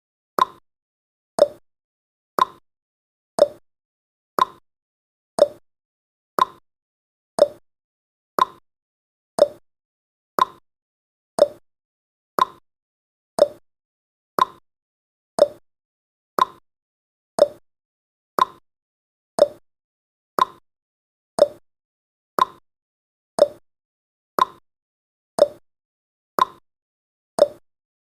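A countdown timer's tick sound effect: one short, sharp tick every second, at an even pace, each one dying away quickly.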